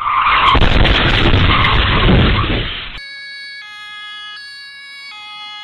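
A loud rough rush of noise with a heavy rumble for about three seconds stops abruptly. It is followed by quieter steady electronic tones that step between pitches every second or less.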